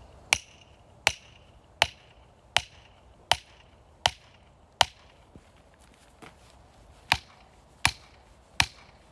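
Steady hammer blows on metal, each with a short ringing clang, about one every three-quarters of a second, with a pause of a couple of seconds midway: a steel wedge being driven into a log to split firewood.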